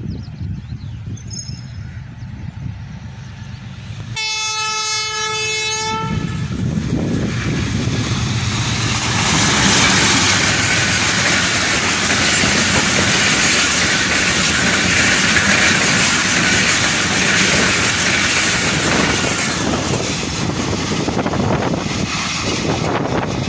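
An express passenger train hauled by a diesel locomotive passing at speed. The approaching locomotive's engine runs low and steady, then its horn sounds once for about two seconds, about four seconds in. After that the coaches go by with a loud, steady rush of wheels on rail that builds for a few seconds and holds.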